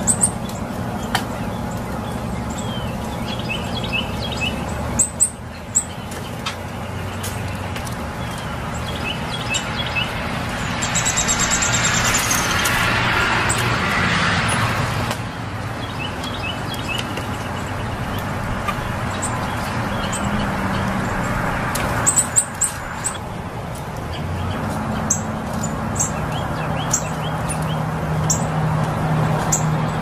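Short, sharp bird chip notes and brief twitters every few seconds over a steady low rumble of background noise. A louder rushing swell rises and fades in the middle.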